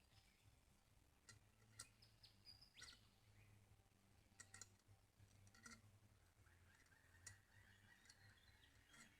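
Near silence, with scattered faint clicks.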